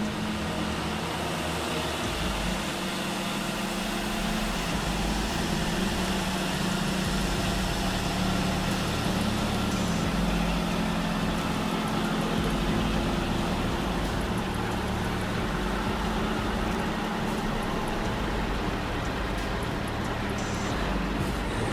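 Motor vehicle engines running steadily with road traffic noise and a constant low hum.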